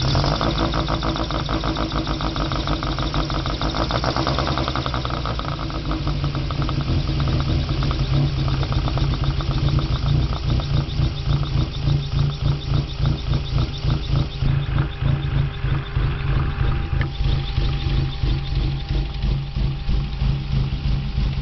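1997 Mazda Miata's 1.8-litre four-cylinder, fed by motorcycle individual throttle bodies from a GSX-R600 and run on Megasquirt, running at a low idle. After a few seconds it settles into an even, pulsing beat.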